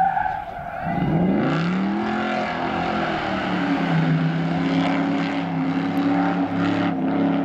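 Classic rally car's engine accelerating hard out of a hairpin: the revs climb sharply about a second in, then the engine runs on at a steady, high note as the car pulls away along the road.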